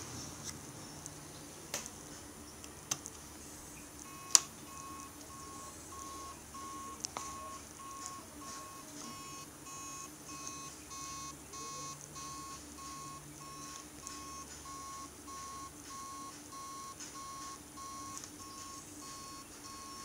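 An electronic beep, one steady tone repeating about twice a second, starting about four seconds in. A few sharp clicks come before it, the loudest just as the beeping begins.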